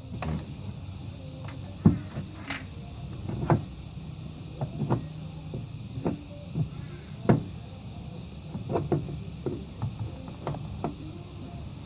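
Irregular clicks and knocks of hand work on the Landcruiser's diesel fuel filter housing as it is loosened for draining, with a couple of louder knocks about two seconds and seven seconds in, over a low steady hum.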